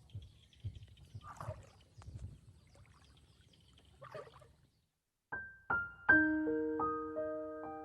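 Faint outdoor background with a high steady drone and two short animal calls. After a brief silence, piano music starts about five seconds in with struck notes, and from then on it is the loudest sound.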